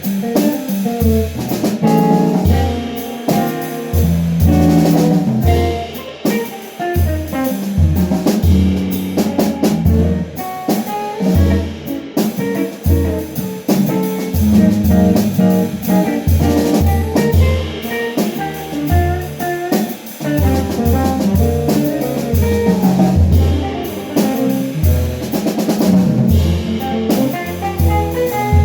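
Jazz band playing, with a drum kit and cymbals keeping time under a line of separate, evenly paced bass notes and guitar.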